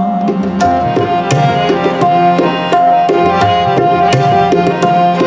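Tabla playing a lively run of strokes in a kirtan interlude, over steady held notes of the accompanying melody, with no singing.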